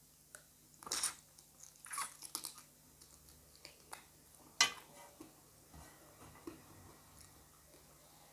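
Close-miked mouth sounds of a person eating rice and chicken curry: chewing, with sharp crunching clicks about a second in, around two seconds, and the loudest at about four and a half seconds.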